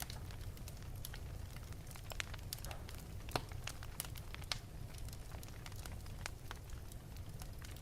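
Wood fire burning in an open fireplace: irregular sharp crackles and pops over a steady low rumble of the flames.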